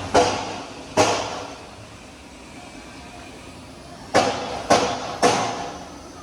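Five loud, sharp bangs, each ringing briefly as it fades: two about a second apart at the start, then three in quick succession about half a second apart near the end.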